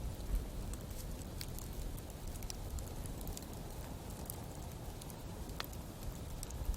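Wood campfire crackling, with scattered small snaps and a few sharper pops over a low steady rumble.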